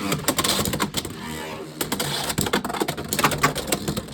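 Two Beyblade X spinning tops, Unicorn Sting and Wizard Arrow, whirring and clattering against each other in a plastic stadium during a battle, with many sharp clicks of collisions.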